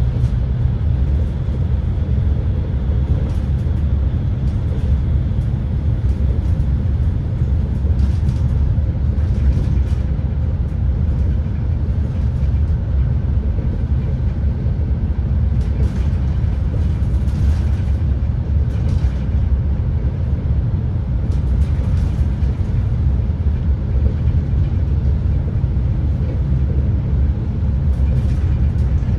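Steady low rumble of an ETR600 tilting train running at speed, heard from inside a carriage, with a few faint clicks scattered through it.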